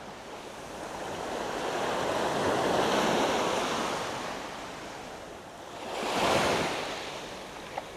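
Surf washing onto a beach: one long wave swells up to about three seconds in and eases off, then a second, shorter wave comes in about six seconds in.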